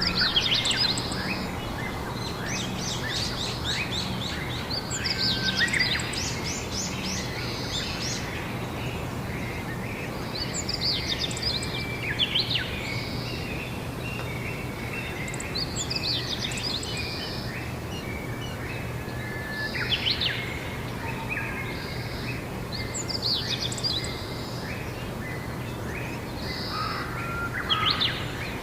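Songbirds singing outdoors: short phrases of quick high chirps come every few seconds over steady background noise, with a low steady hum underneath.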